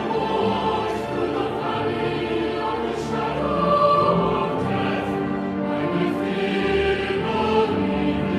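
Choir singing sacred music with a sustained, slow-moving ensemble sound.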